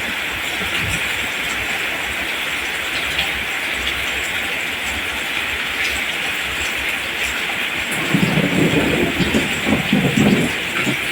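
Steady rain, an even hiss, with a low rumble beneath it. About eight seconds in, a louder, uneven low rumbling swells up over the rain.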